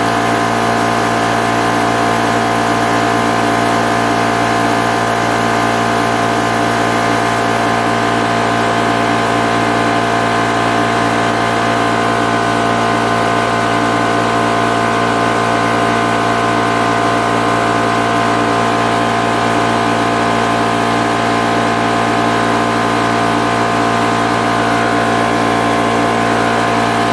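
High-pressure PCP air compressor running steadily, a constant mechanical hum made of many steady tones.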